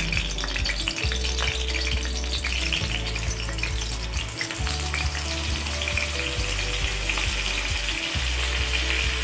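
Cumin seeds frying in hot ghee in a kadhai: a steady sizzling hiss with many small crackles and pops.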